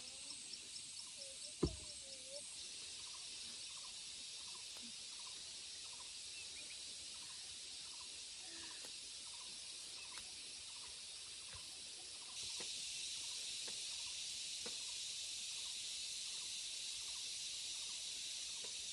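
Steady high-pitched hiss of rural outdoor ambience with faint, evenly repeating ticks and a single sharp knock about one and a half seconds in. The hiss jumps louder about two-thirds of the way through.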